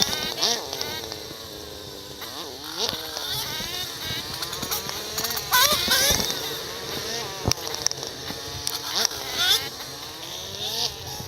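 Yamaha dirt bike engine revving up and down on a trail ride, its pitch rising and falling again and again, with two sharp knocks around the middle.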